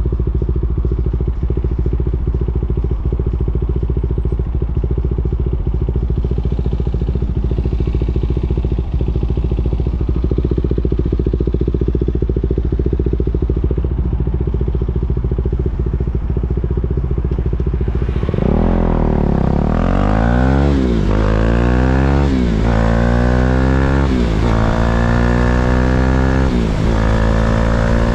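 KTM 390 Duke's single-cylinder engine idling steadily, then, about two-thirds of the way in, pulling away and accelerating hard, its pitch rising and dropping with each of several upshifts, with rising wind rush.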